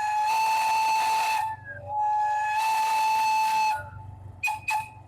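Train whistle sounding two long blasts, each held about a second and a half at a steady pitch. Two short sharp sounds follow near the end.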